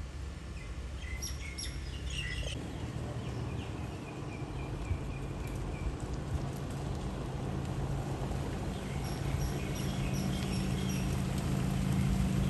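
Small birds chirping in short runs of high notes over steady outdoor background noise. A low engine hum comes in after a couple of seconds and grows louder toward the end.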